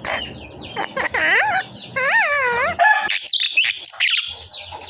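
Pet talking bird whistling and calling: a warbling whistle that swoops down and up, then a wavering whistle that rises and falls several times about two seconds in, followed by harsh, squawky calls around three to four seconds.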